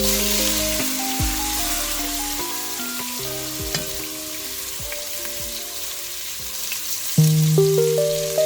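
Food sizzling in a hot frying pan, a steady hiss with small crackles, under background music.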